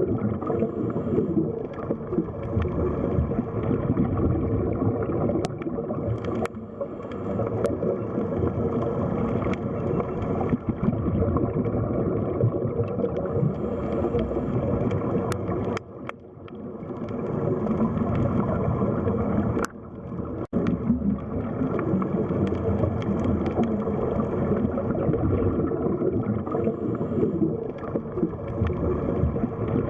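Underwater sea ambience: a dense, low, steady wash of water noise with a few faint clicks. The sound dips briefly twice, a little past halfway.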